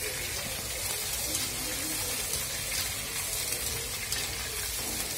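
Food sizzling steadily in hot oil in a kadai, with a faint crackle.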